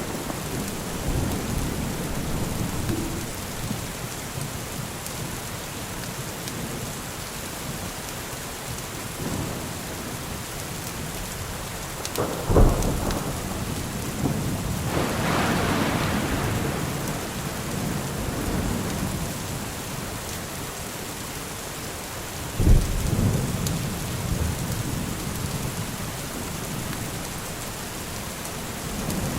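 Steady rainfall with thunder: two sharp, loud claps about twelve and twenty-three seconds in, and a long rumble rolling through a few seconds after the first.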